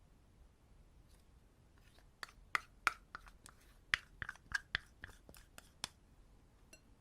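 Slime being worked by hand, giving a quick, irregular run of sticky clicks and pops for a few seconds.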